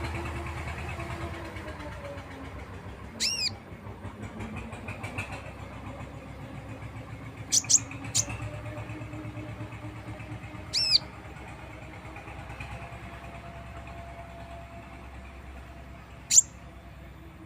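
A songbird called a konin giving short, sharp, high calls that bend in pitch, about five of them spread several seconds apart, with two in quick succession near the middle. Beneath them runs a steady low engine-like rumble.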